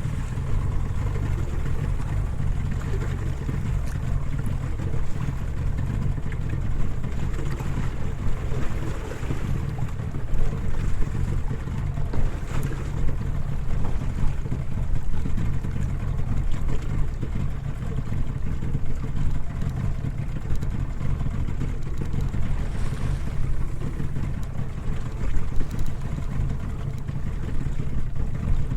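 Small fishing boat's outboard motor running steadily under way, with a constant low rumble and wind and water noise over it.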